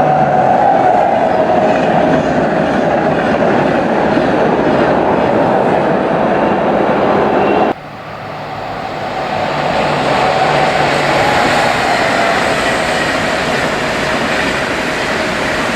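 Train passing through the station, with a steady rolling rumble and wheel clatter on the rails. The sound cuts off abruptly about halfway, then builds up again over a couple of seconds as train noise returns.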